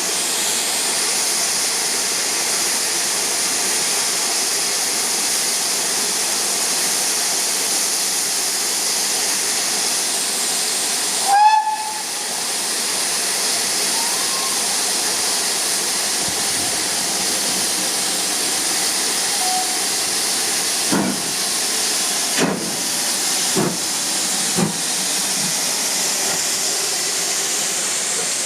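Steam locomotive Witherslack Hall, a GWR Modified Hall 4-6-0, standing with steam hissing steadily and loudly. A short, high whistle toot sounds about a third of the way in, and four sharp bursts come about a second apart near the end.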